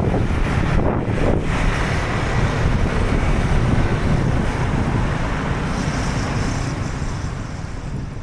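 Wind buffeting the microphone: a steady, heavy rumble of noise with no distinct events, easing off near the end.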